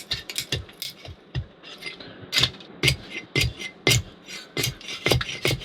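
Firewood being chopped into small kindling: a run of sharp wooden knocks, about two a second and unevenly spaced.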